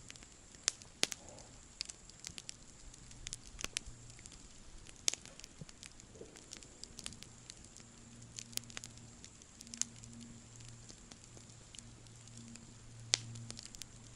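Wood campfire crackling, with irregular sharp pops and snaps over a soft hiss. A faint steady low hum sits underneath in the second half.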